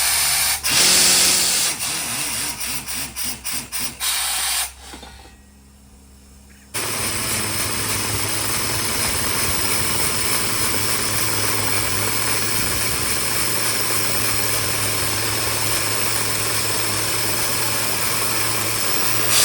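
Mini borewell drilling rig: a few seconds of knocking and clanking, a brief lull, then about seven seconds in the rig's engine comes on abruptly and runs steadily with a constant hum and hiss.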